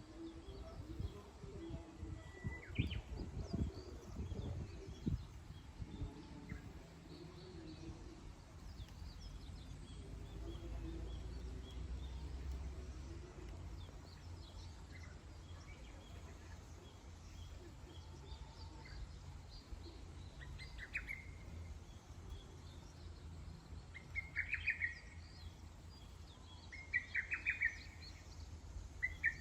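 Wild birds chirping: scattered short calls at first, then louder rapid chirps in quick bursts near the end, over a steady low background rumble.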